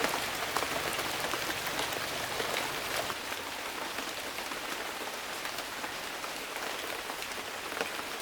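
Rain falling steadily, a dense hiss scattered with the ticks of individual drops; the deeper part of the sound drops away about three seconds in.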